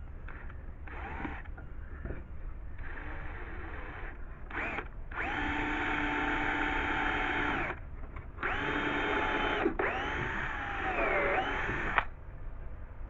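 Power drill boring a pilot hole in thin wood so the screw won't split it: a few short runs, then a longer one of about two and a half seconds and two more near the end. The motor's pitch dips briefly under load in the last run.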